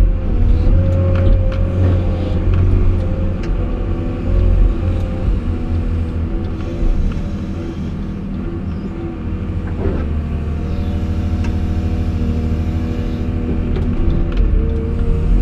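Caterpillar 349E hydraulic excavator's diesel engine running steadily, its pitch shifting a little as it works, with a few clicks and a sharp knock about ten seconds in.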